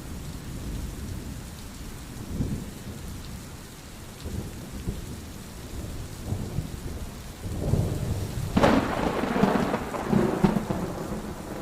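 Rain falling steadily with low rolling thunder. A louder peal of thunder breaks about eight seconds in and rumbles on for a few seconds.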